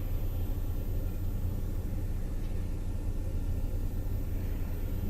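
Steady low rumble of an idling car engine, heard from inside the cabin.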